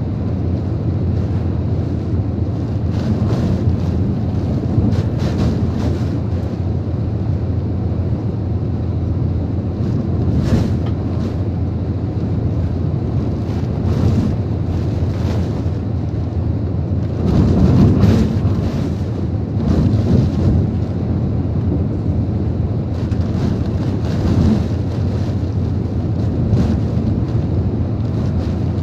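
Typhoon wind and rain buffeting a truck: a steady low rumble of wind on the microphone, broken by several sharper gusts, with the strongest a little past halfway.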